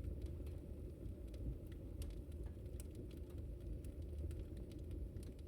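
Wood fire burning: a steady low rumble of the flames with sharp crackles and pops scattered irregularly throughout.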